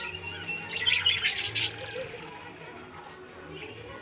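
Pet lovebirds chirping, with a louder burst of calls about a second in and a couple of short high chirps near three seconds.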